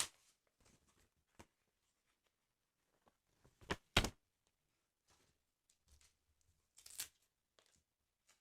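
Close-up handling of a paper football sticker album: a few short papery rips or rustles, two close together near the middle being the loudest and another later, with light taps and ticks between.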